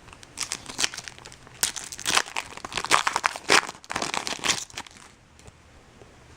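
Foil wrapper of a 2012 Bowman Chrome baseball card pack crinkling and tearing as it is opened by hand, for about four seconds, then stopping.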